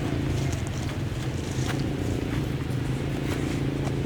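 An engine running steadily at an even pitch, with scattered faint clicks over it.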